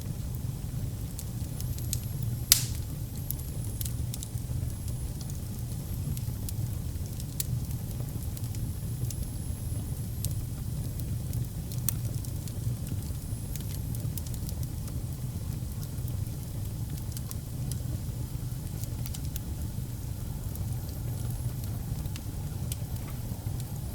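Wood fire burning in a fireplace: a steady low rumble of flame with scattered sharp crackles, and one loud pop about two and a half seconds in.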